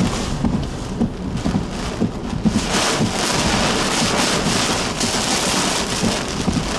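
Heavy rain pouring down in a severe thunderstorm, a dense, steady hiss that grows fuller and brighter about two and a half seconds in.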